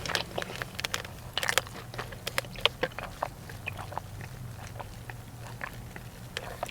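Close-up mouth sounds of chewing a crispy breaded chicken tender: irregular soft crunching clicks over a steady low hum.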